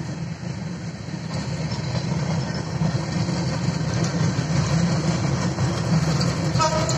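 Chitra Express intercity passenger coaches rolling past on the rails, a steady low rumble that grows louder about a second and a half in. A brief tone is heard near the end.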